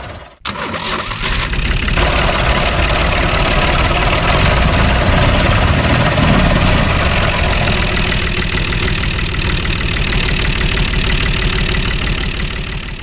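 Small motor of a handmade model tractor running steadily with a fast, even rattle, dropping out briefly just after the start.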